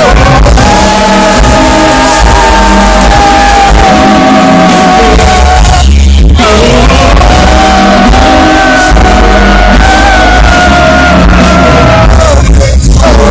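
Live R&B performance: a male singer holds long sung notes over the band, with short breaks for breath about six seconds in and again near the end.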